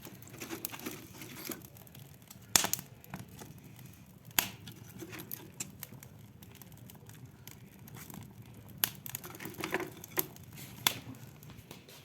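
Newly lit fire in a fireplace crackling as it catches, with irregular sharp snaps and pops.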